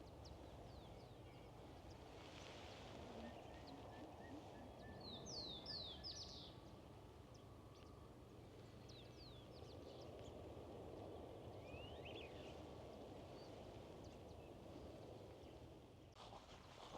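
Faint wild bird calls over a quiet steady outdoor background: a quick run of short, high, falling chirps about five seconds in, and a few rising notes around twelve seconds.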